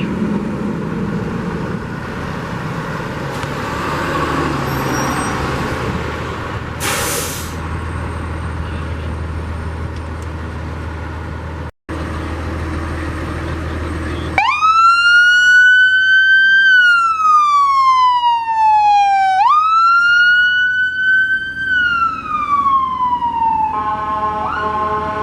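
A steady low rumble of vehicle noise. About 14 seconds in, a loud emergency-vehicle siren starts wailing: twice its pitch jumps up quickly and slides slowly down, then it settles into a steady tone near the end.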